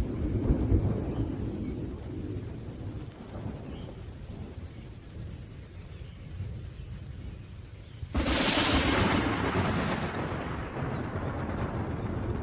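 Thunderstorm with rain: low thunder rumbling at the start and dying away, then a sudden, sharp thunderclap about eight seconds in that rolls off slowly.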